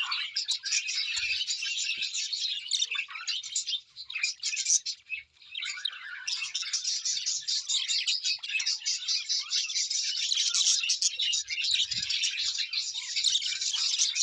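Birds chirping and twittering busily, many calls overlapping, with a short lull about four to five seconds in.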